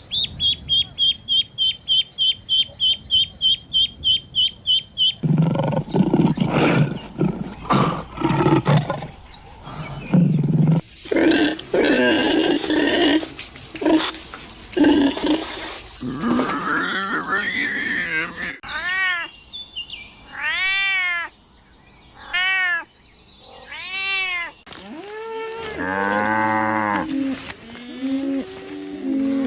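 A succession of different farm animal calls. First comes a fast repeated call, about four a second, for several seconds. Low grunting follows, then a noisy mixed stretch, then a few calls that rise and fall in pitch, and near the end deep, drawn-out calls.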